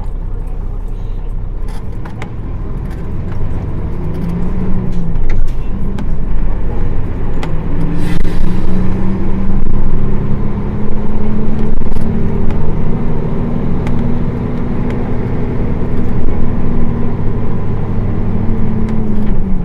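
Nissan Diesel PF6 240 ps diesel engine of a Fuji-bodied city bus, heard from inside the cabin, building up speed with a gear change about five seconds in, then running at a steady pitch before easing off at the very end. A short hiss sounds about eight seconds in.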